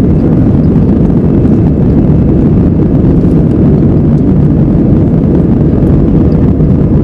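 Airbus A320 jet engines and rushing air heard from inside the cabin during takeoff: a loud, steady low rumble that does not change.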